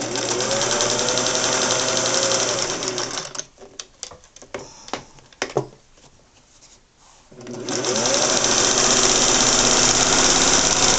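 Singer 401A sewing machine running at stitching speed, its motor whine rising as it speeds up; it stops after about three seconds. A few sharp clicks and knocks follow, then the machine starts again near the end, speeding up and running steadily.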